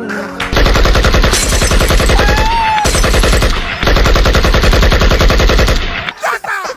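Automatic gunfire in two long rapid bursts of about two seconds each, with a short pause between them.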